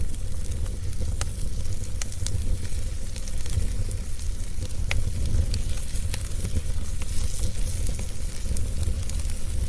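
Wood fire burning in a fireplace, with a steady low rumble and hiss and scattered sharp crackles and pops.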